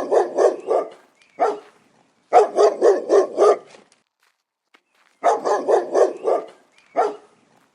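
A dog barking in quick runs of several barks with single barks between: a run at the start, one bark about a second and a half in, a run of about six barks around two and a half seconds in, another run about five seconds in, and a last single bark near the end.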